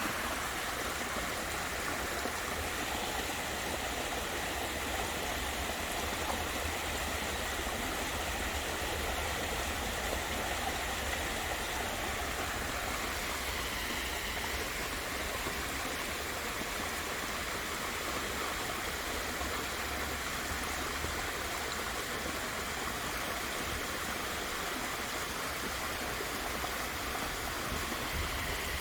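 Steady rushing and splashing of water from a small waterfall, even and unbroken throughout.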